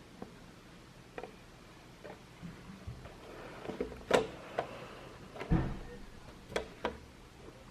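Scattered light knocks and clicks of the tarantula enclosures and their parts being handled, the two loudest about four and five and a half seconds in.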